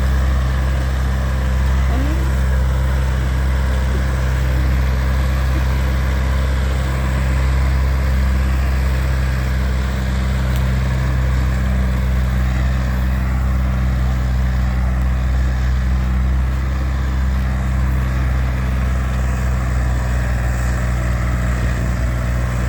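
Tractor diesel engine running loud and steady at constant speed, with no change in pitch.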